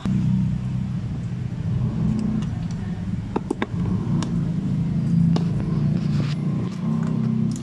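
A motor vehicle engine running with a low, steady rumble, with a few sharp clicks from hand tools on metal around the middle.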